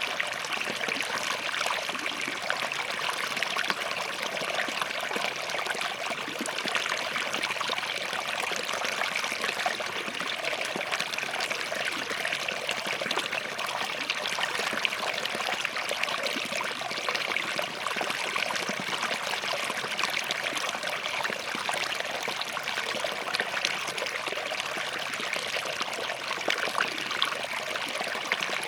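Small forest stream running steadily over and between rocks, a continuous bubbling trickle.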